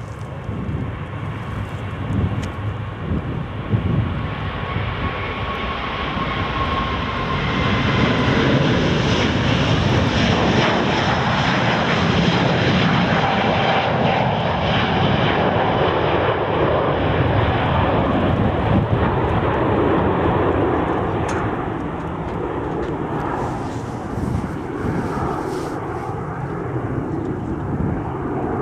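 Airbus A350-941 jet engines at takeoff power as the airliner departs: a jet roar that builds, stays loudest for several seconds in the middle, then eases, with a whine sliding down in pitch in the first few seconds.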